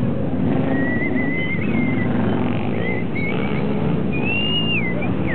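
Motorcycle engines running, with a high, wavering whistle coming and going over them.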